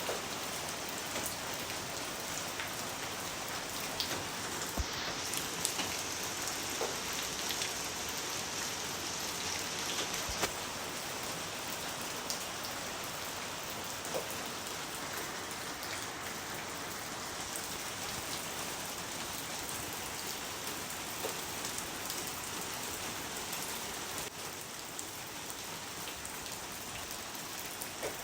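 Steady rain falling on a surface, with scattered sharper drop ticks.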